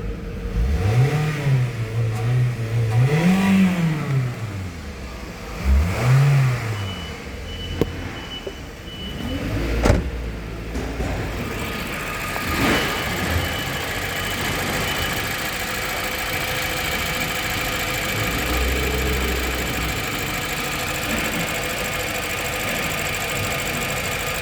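Toyota 1AZ-FSE 2.0-litre inline-four engine revved in several short blips, its pitch rising and falling, then settling about halfway through into a steady even idle. A single sharp click sounds near the middle.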